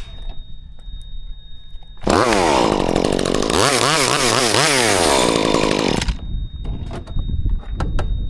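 Chainsaw starts about two seconds in and runs at high revs for about four seconds, its pitch rising and falling several times. It stops suddenly.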